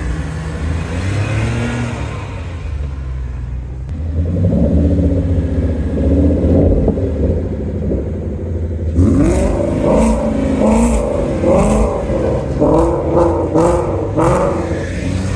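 Car engine running steadily, then from about nine seconds in revved up and down in a quick series of blips.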